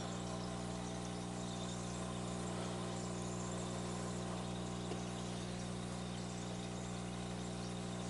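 A steady low electrical hum with evenly spaced overtones, under a faint even hiss.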